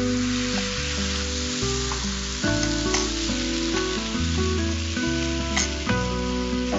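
Watery ground red-chilli chutney sizzling in hot oil in a nonstick pan as it is poured in and stirred, with a couple of sharp clicks. Background music plays underneath.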